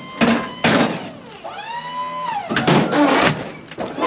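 Box truck's hydraulic liftgate running: its electric pump motor whines up, holds steady for about a second, then winds down, with clanking and rattling of the gate before and after.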